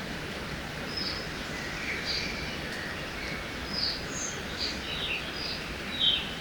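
Several small birds calling in short chirps and whistles, one after another, over a steady rush of river water.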